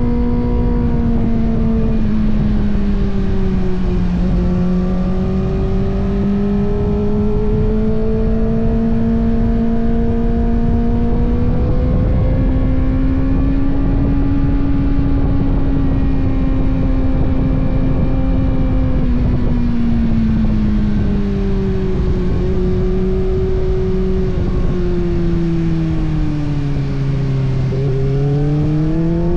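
Kawasaki ZX-6R's inline-four engine pulling under way, its note rising and falling with the throttle over a steady rushing noise. The pitch sags about four seconds in, climbs again, then drops slowly through the second half before rising sharply near the end.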